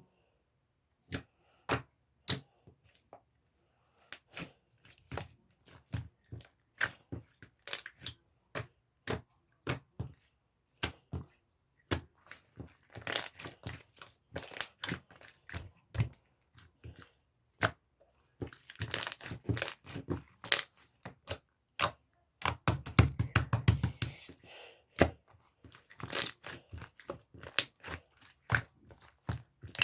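Slime being pressed and pulled by hand, making sharp crackling pops and clicks. The pops come one at a time at first, then in dense crackling runs, the thickest about two-thirds of the way through.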